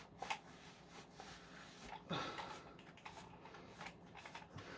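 Faint intermittent rubbing and scuffing of a dry duster being worked around the motor housing of a Dyson V10 vacuum to clean it, with a slightly stronger swish about two seconds in.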